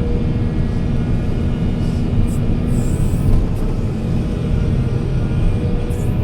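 Heavy diesel machinery engine running steadily with a continuous low rumble, with a few brief high-pitched sounds over it.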